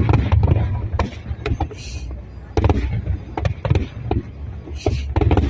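Fireworks display: rapid, irregular bangs of exploding shells over a deep, continuous rumble, with a crackling hiss about two seconds in and again near the end.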